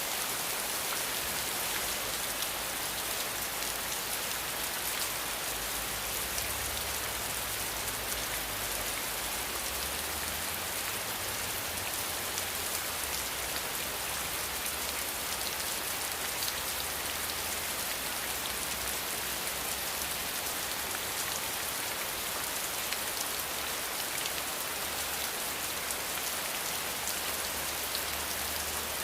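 Steady rain falling on a surface, an even hiss with many small drop ticks, and a faint low rumble underneath that comes and goes.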